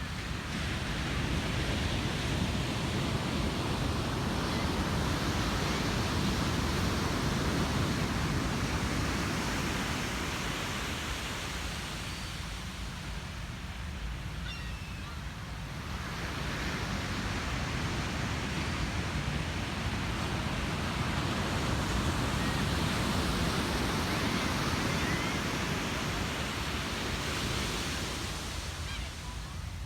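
Ocean surf breaking and washing up a beach in two long swells, each building for several seconds and then fading.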